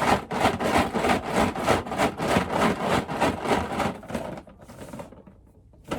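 Plastic raffle balls tumbling and clattering in a turning raffle box, about four or five clatters a second, dying away a little after four seconds in.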